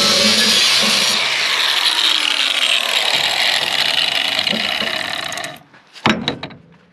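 Power tool cutting through thick steel plate, a loud, dense noise that stops abruptly about five and a half seconds in, followed by a few sharp metallic knocks.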